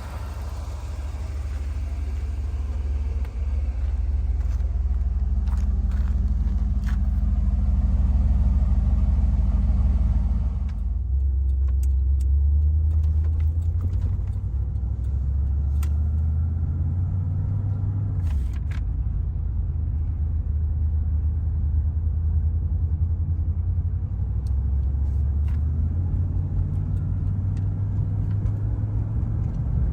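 1986 Pontiac Firebird Trans Am's V8 running with a low rumble. Its pitch steps up and down several times, and the higher hiss falls away about a third of the way in.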